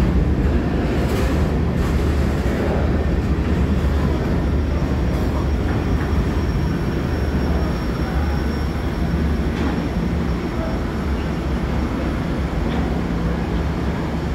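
Freight train of covered hopper cars rolling past on the rails: a steady low rumble with an occasional click from the wheels on the track.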